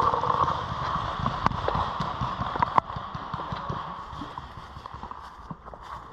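Footsteps and gear knocking against a worn camera as a paintball player moves across the field, with two sharp snaps about a second and a half and three seconds in.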